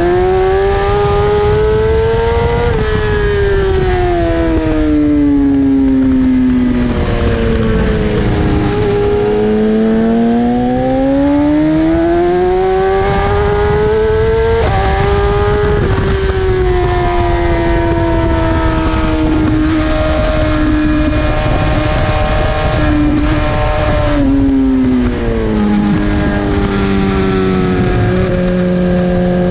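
BMW S1000RR's inline-four engine at speed, revs climbing and falling as the bike accelerates and slows, with sudden drops in pitch at gear changes about fifteen and twenty-five seconds in.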